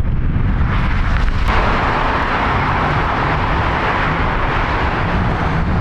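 Jet engines of a Boeing 737 BBJ, with a deep rumble throughout. About a second and a half in, a louder, hissier roar comes in suddenly and holds.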